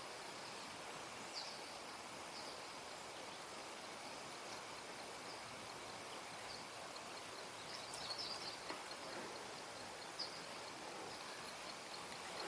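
Quiet outdoor background hiss with a few short, high bird chirps scattered through, the busiest cluster about eight seconds in.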